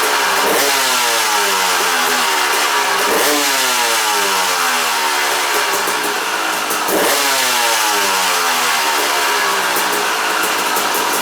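Two-stroke dirt bike engine running through a new FMF Gnarly expansion chamber and Powercore 2 Shorty silencer, revved three times: each time the revs jump sharply and then fall away slowly.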